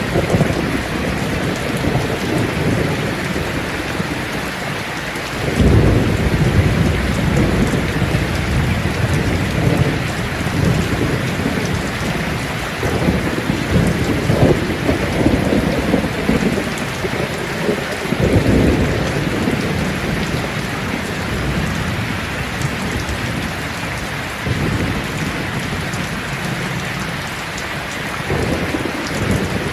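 Steady rain pattering on leaves, with low rolling thunder swelling up several times, most strongly about six seconds in and again near eighteen seconds.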